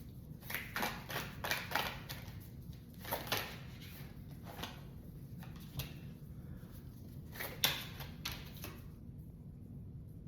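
Tarot cards being shuffled and handled: a run of light card snaps and taps, busiest in the first few seconds, with a few more near the end.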